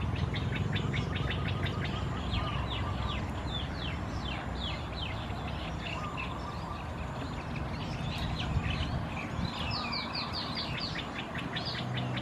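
Birds chirping in quick runs of short, high, falling notes, several a second, with a pause of a couple of seconds midway, over a steady low rumble.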